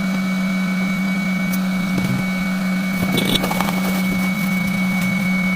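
A steady, unchanging machine hum, like a small motor or fan running, with a thin high whine above it and a few faint clicks.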